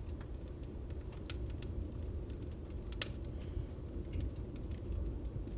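Fireplace crackling, with sparse sharp pops (the strongest about three seconds in) over a steady low rumble.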